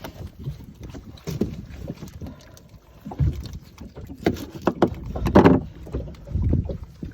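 Knocks and clatter of things being handled inside a small aluminium boat, over a steady low rumble of wind and water. The knocks come thickest and loudest in a cluster about four to five and a half seconds in.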